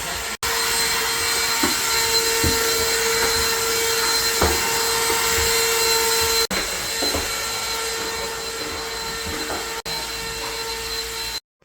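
Vacuum cleaner running steadily with a loud hiss, heard in several short clips that break off abruptly.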